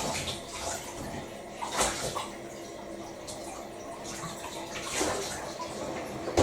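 A cereal bowl being washed up by hand: water splashing, with a couple of sharp knocks of the bowl, about two seconds in and again about five seconds in.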